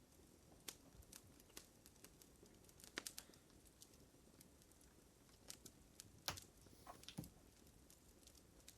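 Fire crackling: irregular small pops and snaps over a faint hiss, with sharper snaps about three seconds in and again around six to seven seconds in.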